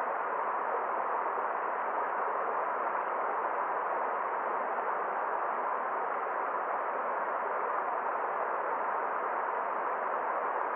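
Forest stream flowing: a steady, muffled rush of water, even throughout, with no single splashes, birds or other sounds standing out.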